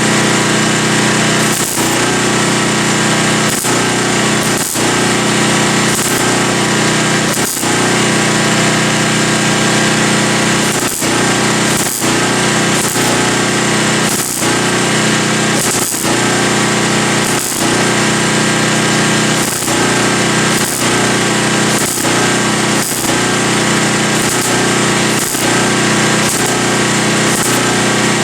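Welder crackling and buzzing as a steel patch is stitch-welded into a sheet-metal hood, with brief breaks between short welds about every one to two seconds.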